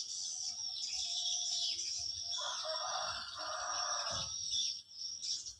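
A steady high-pitched buzz of insects, with a rooster crowing once for about two seconds in the middle.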